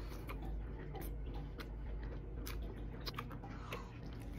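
A person chewing and biting food: a mouthful of sirloin steak, then a bite into a loaded baked sweet potato, with irregular wet clicks and smacks of the mouth.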